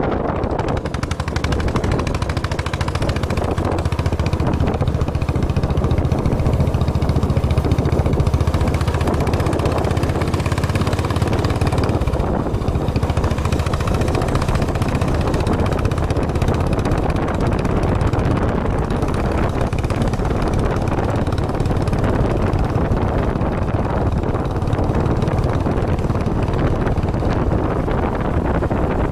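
Motorcycle engine running steadily under way, a rapid low pulsing beat, with wind and road noise.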